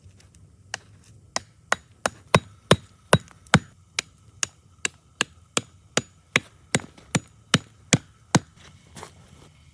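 Steady chopping into wood with a blade, about twenty sharp strikes at roughly two and a half a second, stopping shortly before the end.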